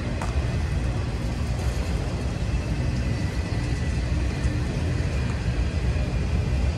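Freight train of autorack cars rolling slowly past: a steady rumble of steel wheels on rail, with a faint thin high tone held above it.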